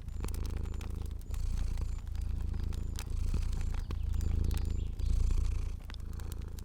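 A cat purring in a low, steady rumble that swells and eases with each breath, roughly once a second, with scattered sharp pops and clicks of a crackling fire over it.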